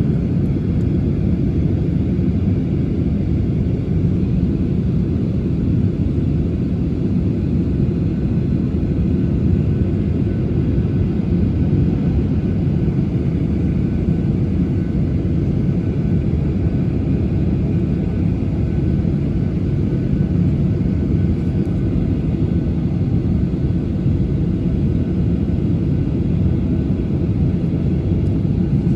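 Steady low rumble heard inside the cabin of a Boeing 737-800 with its CFM56 jet engines idling on the ground before taxi.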